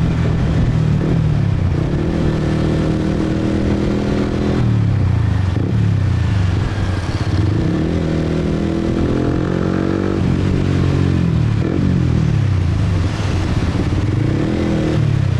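150 cc motorcycle engine accelerating hard through the gears. Its pitch climbs and drops back at each upshift, several times.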